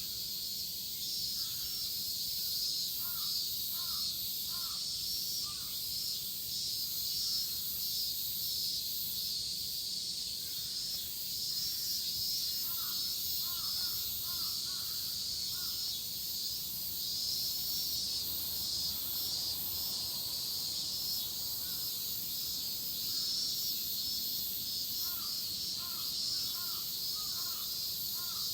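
A chorus of cicadas buzzing steadily in a high, pulsing drone, with a crow cawing in three short series of four or five caws, a few seconds in, around the middle and near the end.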